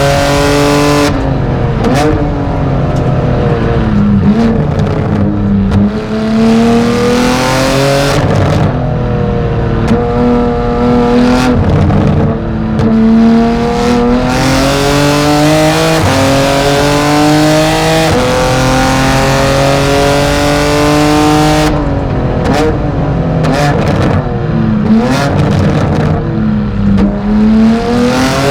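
BMW M4 GT4 race car's twin-turbo straight-six heard onboard, pulling hard through the gears: the engine note climbs again and again, each time dropping sharply at a quick upshift. Near the end it falls and rises in quick swings with crackles, downshifting under braking before pulling away again.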